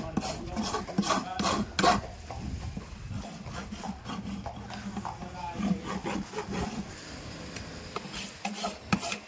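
Farrier's rasp filing a horse's hoof in repeated scraping strokes.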